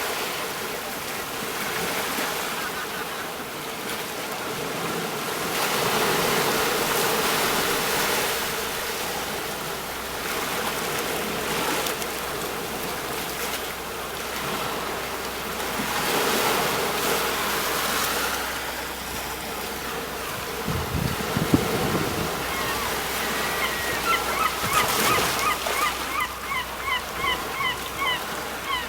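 Sea waves breaking on a shore, the surf noise swelling and easing every few seconds. A low bump comes about two-thirds of the way through. Near the end, a bird calls in a fast run of short repeated notes.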